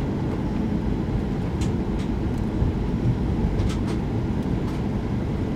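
Steady low cabin rumble of a Boeing 737-800 rolling on the ground after landing, with a few faint clicks.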